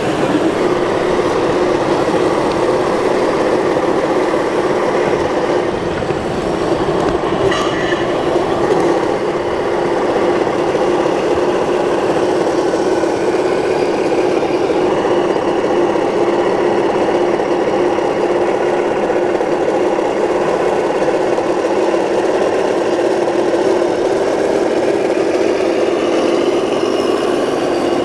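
1/14-scale RC model trucks running, their sound modules playing a steady diesel-engine drone, with one short click about seven seconds in.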